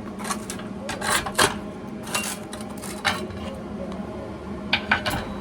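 Pieces of thin sheet metal and a welding magnet clinking and clanking as they are handled and set up for welding: a string of short, irregular knocks, over a steady low hum.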